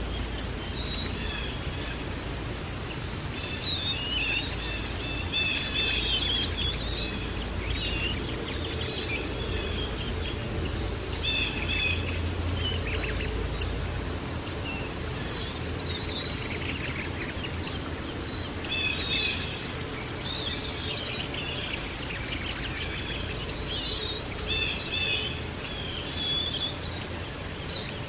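Several small songbirds chirping and twittering in overlapping short calls and trills over a steady low background rush.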